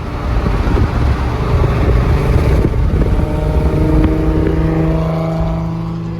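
Car engine running hard with a loud, rough exhaust rumble, then easing off into a steadier tone that falls slightly in pitch over the last couple of seconds.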